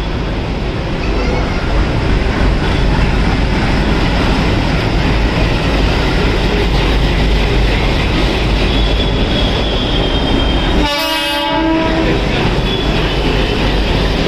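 Train running along the track with a steady rumble and rail noise, and one short horn blast about eleven seconds in.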